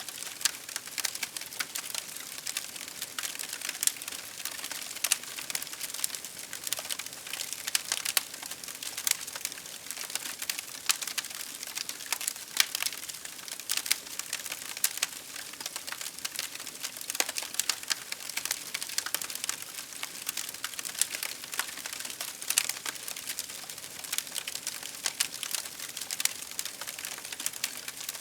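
Wood fire crackling: a constant scatter of small sharp pops and snaps, irregular and many per second, over a soft hiss of burning.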